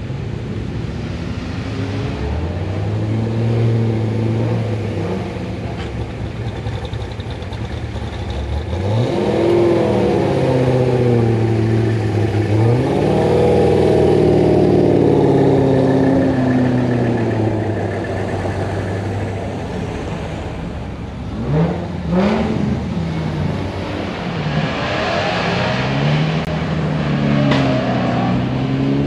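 Car engines revving and accelerating, the engine pitch climbing and falling several times. The loudest, longest run comes about ten to sixteen seconds in, with two quick sharp revs a little past twenty seconds.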